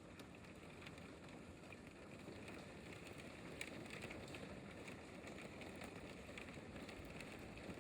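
Hailstorm: a steady hiss of hail and rain falling, with scattered faint ticks of hailstones striking.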